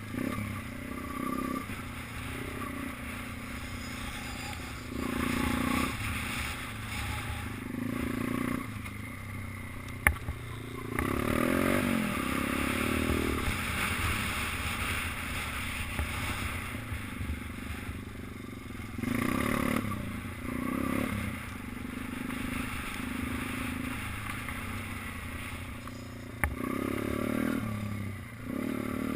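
Minibike's small engine revving up and easing off again and again, with a clatter of rattles and a couple of sharp knocks, one about ten seconds in and one near the end.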